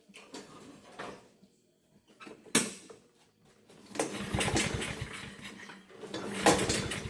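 Honda GCV170 mower engine pull-started twice on its recoil cord, turning over with rapid pulses each time but never firing: the engine will not start. A sharp click comes before the first pull.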